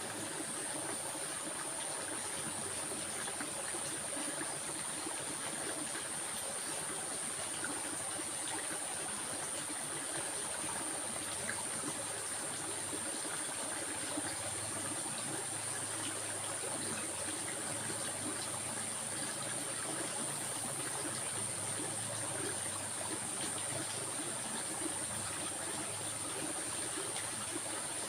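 A stream flowing and trickling steadily, with a constant faint high-pitched whine over it.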